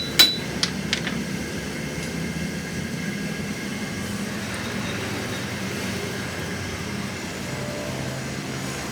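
Steady low hum of a running engine or machine, with a few sharp metal clinks in the first second.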